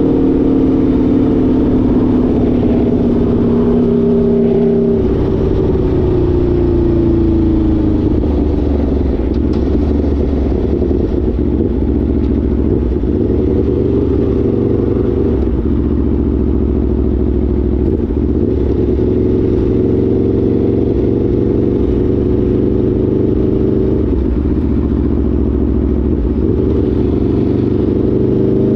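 Aprilia Tuono V4 motorcycle's V4 engine running loudly: its pitch falls over the first several seconds as revs drop, holds fairly steady through the middle, then climbs again near the end as it revs up.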